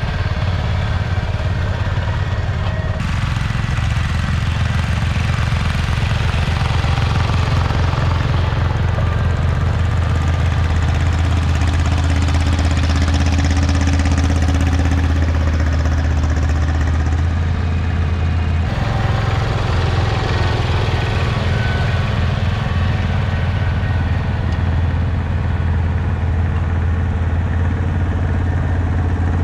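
Garden tractor engine running steadily with a low drone. The sound changes abruptly twice, about three seconds in and a little past halfway.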